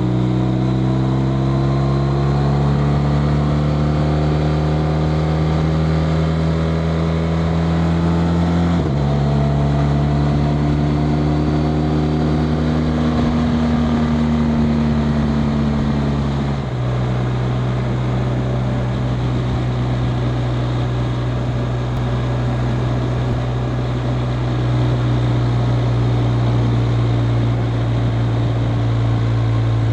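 BMW R 1250 RT's boxer-twin engine under way, its pitch creeping up as it pulls, dropping suddenly about nine seconds in and again a little past halfway with upshifts, then running steadily at cruise. Wind and road rush run underneath.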